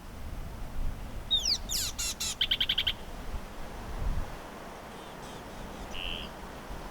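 A bird calling: a few quick downward-sweeping whistles about a second in, then a fast rattling run of repeated notes, and a single faint short note near the end.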